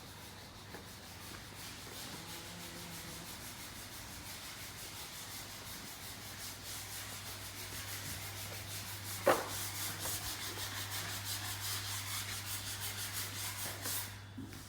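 Sanding by hand: rapid, even back-and-forth strokes, several a second, growing steadier in the second half, with one sharp knock about nine seconds in. A steady low hum runs underneath.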